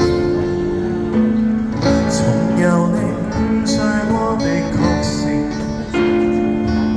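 Live band music: a guitar-led instrumental passage between sung lines of a Cantopop ballad, with sustained chords.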